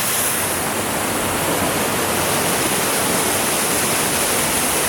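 Waterfalls on a rocky river, with a steady, loud rush of falling and churning water.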